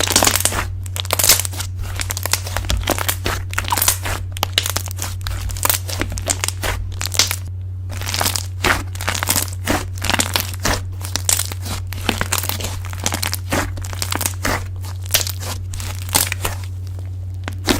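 Slime being squished and poked close to the microphone, giving a dense run of irregular crunchy crackles and clicks over a steady low hum.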